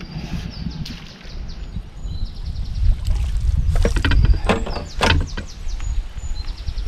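Wind buffeting the microphone as a steady low rumble, with runs of rapid light ticks and a few sharp knocks about halfway through.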